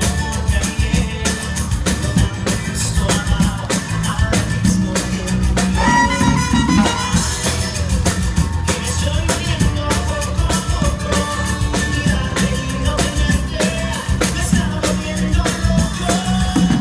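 Loud live band music with a fast, driving drum beat and pitched instruments, with some singing.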